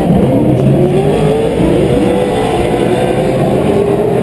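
Several Pro 4 short-course off-road race trucks running at race speed, their engines overlapping in a loud, continuous din. The engines rise and fall in pitch as they rev up and back off through the track.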